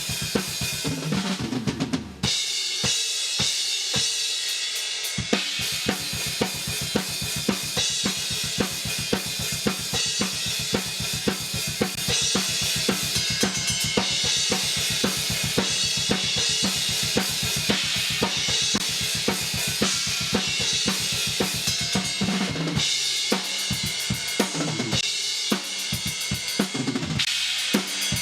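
Thrash-metal drum kit recording played back through a dbx compressor: very fast double-bass kick drum under snare and cymbals, with a brief break just after two seconds in.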